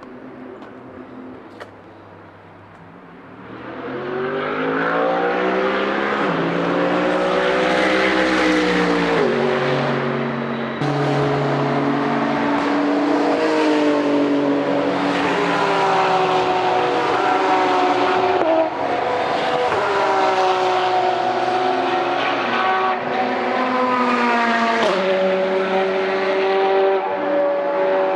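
Race cars running hard on a road course, engine notes climbing through the revs and dropping sharply at each upshift. It starts loud about three and a half seconds in, after a quieter start.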